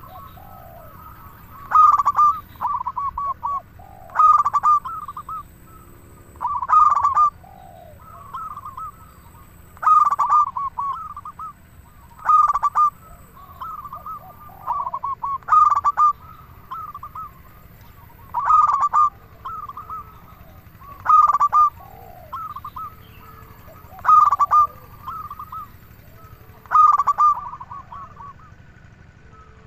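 Zebra dove (perkutut) singing its cooing song over and over, about eleven phrases, one every two and a half to three seconds. Each phrase is a loud high coo followed by a run of quicker trilling notes, with a softer, lower note between phrases.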